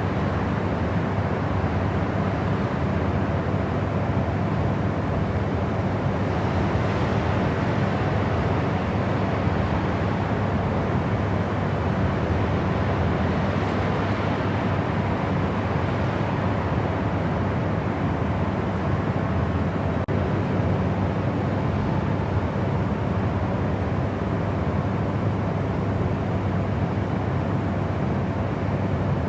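Steady white noise for sleep: a constant, even rushing hiss, weighted toward the low end, that does not change.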